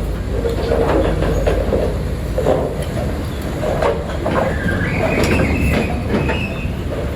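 Heavy construction machine running steadily, with repeated metal clanks and a high metallic squeal starting about five seconds in and lasting over a second.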